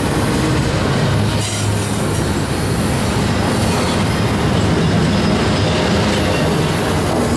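BNSF freight train rolling past at close range: a continuous loud rumble of wheels on rail with a steady low hum.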